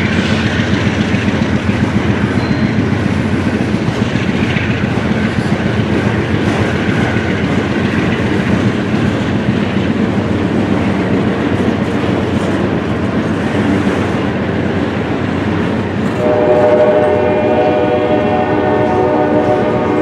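Freight train of auto rack cars rolling past, a steady loud rumble of steel wheels on the rails. About four seconds before the end a locomotive horn starts sounding, a held chord of several notes at once over the rumble.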